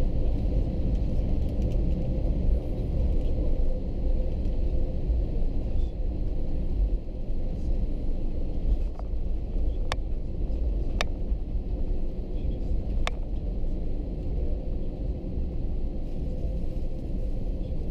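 Airbus A321-200 cabin noise: a steady low rumble of engines and air systems with a faint hum, and a few sharp clicks around the middle.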